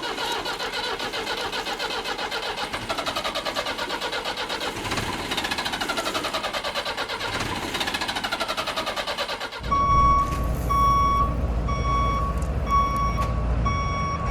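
A dense, pitched, rapidly pulsing sound with slowly gliding tones cuts off abruptly about ten seconds in. It gives way to a truck's engine rumbling and its reversing alarm beeping steadily, about one and a half beeps a second.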